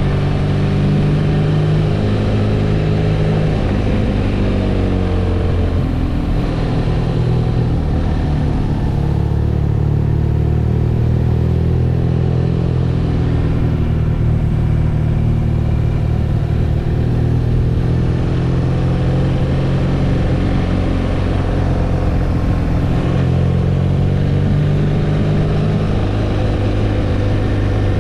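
BMW R nineT's boxer twin engine running while the motorcycle is ridden along, its pitch rising and falling gently with small changes of throttle.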